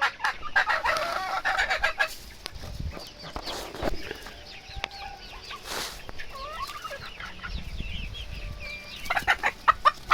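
A flock of chickens clucking and chattering, busiest at the start and again near the end, with scattered single calls in between.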